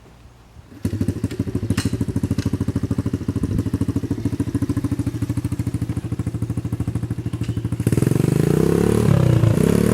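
Pit bike's small single-cylinder engine comes in suddenly about a second in and runs at a fast, evenly pulsing idle. About eight seconds in it is revved, getting louder with the pitch going up and down.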